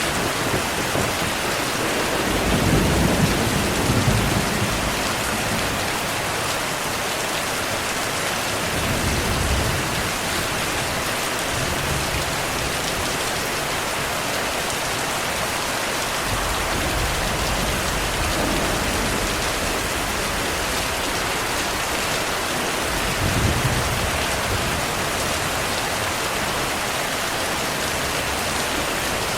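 Steady heavy rain, with low rolls of distant thunder swelling and fading about three times: near the start, around a third of the way in, and again late on.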